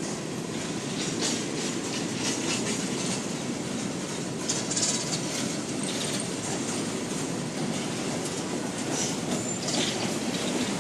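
Freight train cars rolling past on the rails with a steady wheel rumble and clatter, and brief high wheel squeals about halfway through and again near the end.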